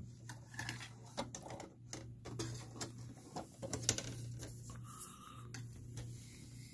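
Plastic laptop screen bezel being pried off with a pry tool: irregular small clicks and snaps as its clips let go, over a low steady hum.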